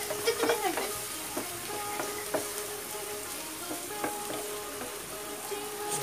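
Sardine omelette sizzling steadily in a frying pan, with a wooden spatula scraping and tapping against the pan now and then.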